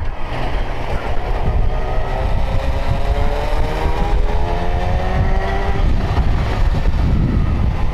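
Motorcycle ride on a 2009 Yamaha FZ1 with its inline-four engine pulling in gear, its pitch rising steadily from about two seconds in until about six seconds. Heavy wind and road rumble on the microphone.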